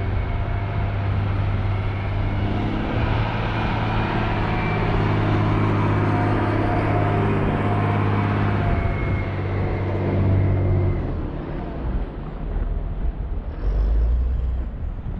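A heavy motor vehicle's engine running close by with a deep, steady hum over road noise. It fades about eleven seconds in, leaving a lower rumble.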